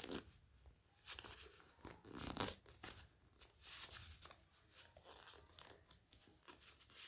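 Paper being folded and creased by hand: soft, irregular rustling and crinkling of a sheet of origami paper, with a louder crackle about two seconds in.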